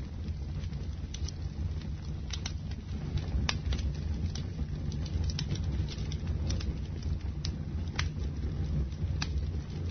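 Bonfire burning: a steady low rumble of flames with scattered sharp crackles and pops from the wood, a few a second.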